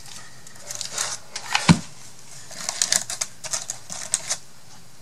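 Paper flowers and small craft embellishments being picked through by hand: light rustling and a quick run of small clicks and taps, with one louder knock on the tabletop about a second and a half in.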